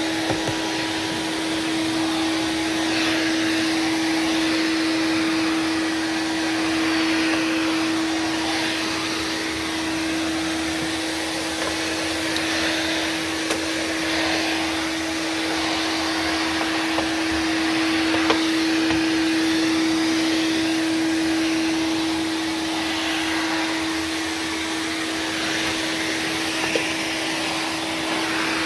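1993 Numatic NV250 cylinder vacuum cleaner running while vacuuming: a steady motor whine over rushing air that swells and eases a little. A few faint clicks come through, about half a second in, around the middle and near the end.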